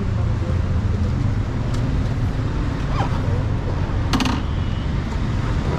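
A motorcycle engine running steadily with a low rumble, and a brief rattle of rapid clicks about four seconds in.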